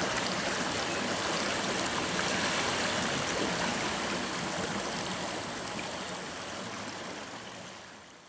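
River water flowing steadily with a bright, even rushing and babbling over rocks, fading out near the end.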